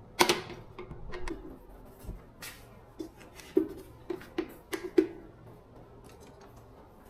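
Irregular clicks and light knocks of small parts and hand tools being handled during a kettle motor repair. The sharpest is about a quarter second in, with a run of taps between three and five seconds in, then it goes still.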